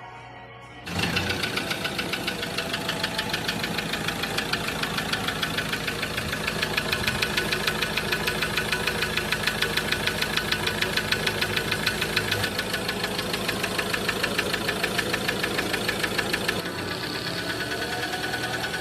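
2016 Ford Ranger turbo-diesel engine starting about a second in, then idling with a steady, rapid knocking pulse. The engine overheated when its radiator burst, and the knock and heavy breather blow-by are taken as signs of a damaged cylinder liner and piston.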